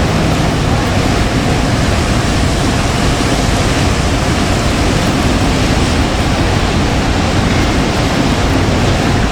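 Storm wind and heavy rain making a steady loud roar, with gusts buffeting the microphone.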